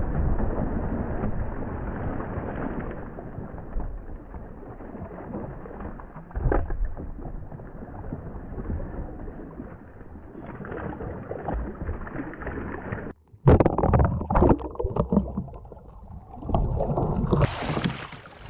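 Water sloshing and gurgling around a kayak, muffled, then a run of loud splashes and knocks about two-thirds of the way through as the kayaker tips into the water.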